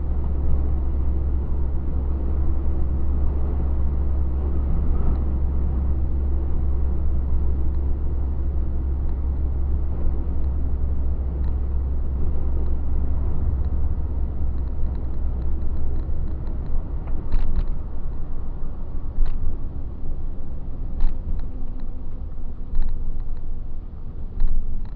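Truck engine running on the road: a steady low rumble that eases about two-thirds of the way through, with scattered knocks and rattles after that.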